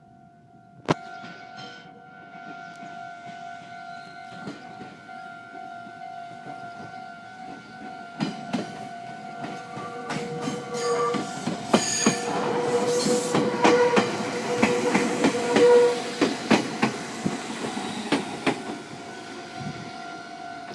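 Japanese level crossing alarm sounding its steady repeated ding while a Meitetsu train runs over the crossing. The wheels clatter over the rail joints, building from about eight seconds in to their loudest in the second half, then easing.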